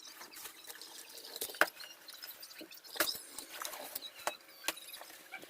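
Packaging being handled during an unboxing, crinkling and rustling in irregular crackles and sharp clicks.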